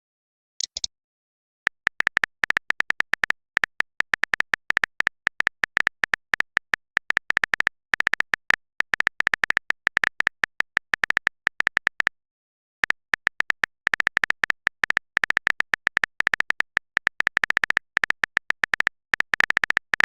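Rapid keyboard-typing clicks, a sound effect for text messages being typed, in two long runs with a short break about twelve seconds in. A brief soft hiss comes just under a second in.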